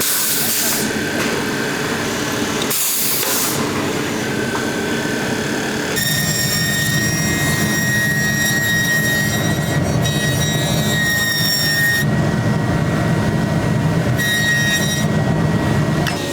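Shoe-factory machinery running steadily, with a hum and whine that change abruptly several times.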